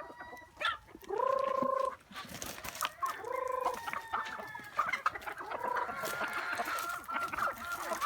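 Native chickens calling: three drawn-out calls, each shorter than the last, over scattered clucking.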